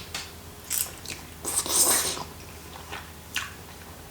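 A person eating noodles: wet chewing and mouth smacks, with a longer, louder slurp about one and a half seconds in.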